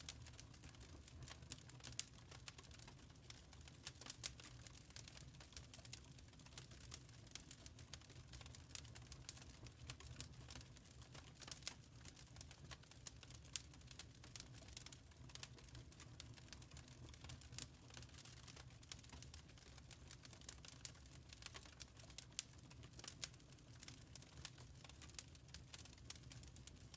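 Wood fire crackling quietly in a fireplace: a constant, irregular patter of small pops and snaps over a steady low rumble.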